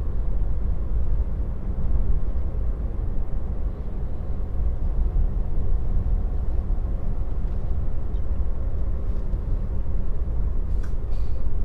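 Steady low road and tyre rumble inside a moving Tesla's cabin, with no engine note.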